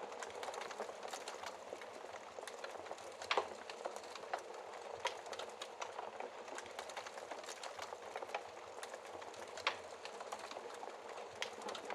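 Wood fire burning in a fireplace: a steady soft hiss with irregular crackles and pops, the sharpest pops about three and a half seconds in and near ten seconds.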